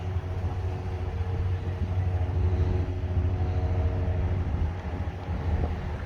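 Steady low engine rumble with a faint hum over it, unchanging throughout.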